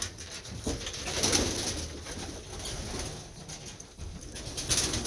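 Young racing pigeons cooing inside the loft, with a few brief rustling noises.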